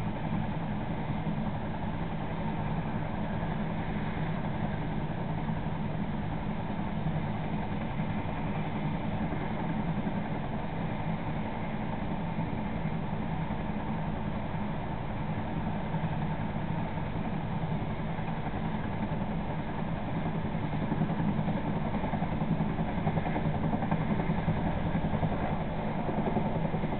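Helicopter running steadily, a constant engine drone that grows a little louder in the last few seconds.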